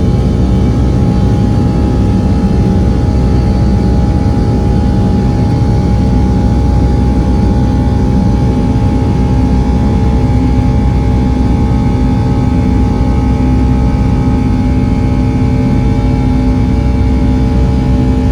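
Boeing 757-200's twin turbofan engines running at takeoff thrust: a loud, steady rumble with held whining tones, a lower hum growing stronger about halfway through.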